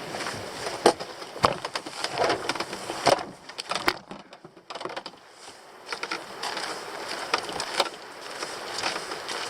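Crunching footsteps with scattered sharp knocks and clatter of carried gear, going quieter for a couple of seconds in the middle.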